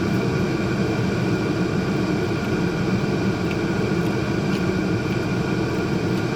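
A steady mechanical hum with several constant tones, unchanging throughout.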